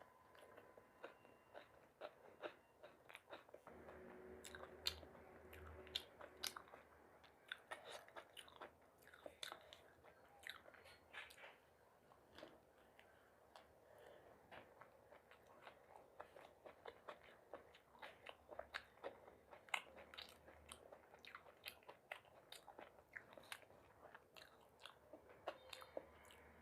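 A person chewing food close to the microphone: a steady run of short, irregular wet mouth clicks and bites.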